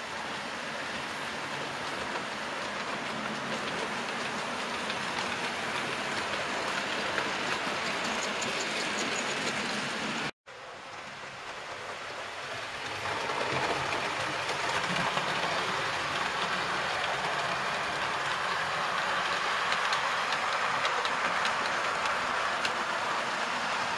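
A train running along the track. The sound cuts out for an instant about ten seconds in, then comes back and grows louder.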